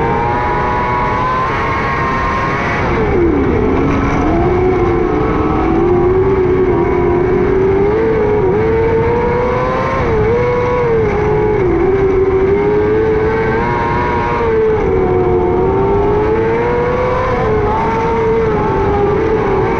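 600cc micro sprint car engine running at racing speed, its revs rising and falling continually, with a sharp drop and climb back about three seconds in.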